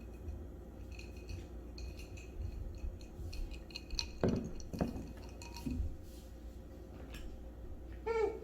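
Light clinks and clicks of glassware, dishes and utensils being handled, with a few heavier knocks midway. A short pitched sound comes near the end.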